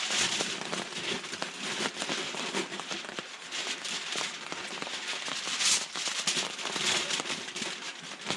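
Aluminum foil crinkling and crackling as it is folded and pressed around a grill: a dense, irregular run of small crackles with a few louder crinkles.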